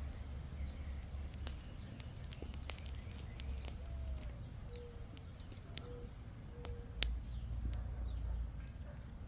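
Small wood campfire crackling, with irregular sharp pops and snaps, the loudest about seven seconds in.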